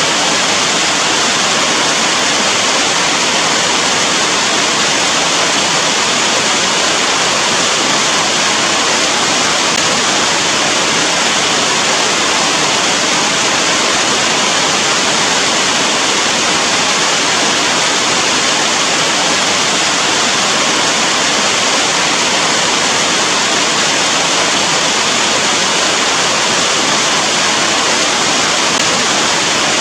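Rain falling heavily and evenly, a dense, steady hiss with no single drops or thunder standing out.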